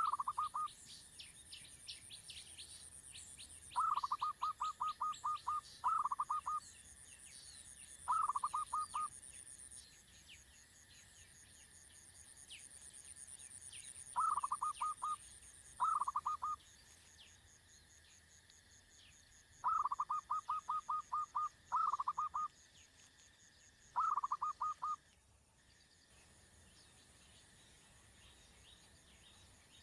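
Bird calls: short runs of rapid pulsed notes, repeated every few seconds, over many faint high chirps and a steady high-pitched insect buzz.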